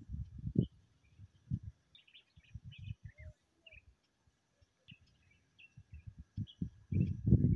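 Birds chirping in short, scattered high calls, over irregular low thuds and rumbles that are loudest in the first second and again near the end.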